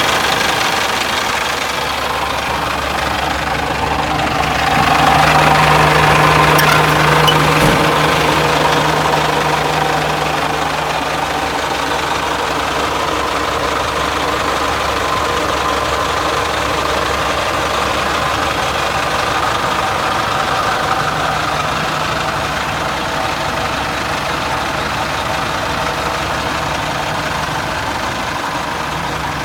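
Caterpillar diesel engine of a 2000 Sterling dump truck idling steadily, swelling a little louder for a few seconds about five seconds in, then settling back.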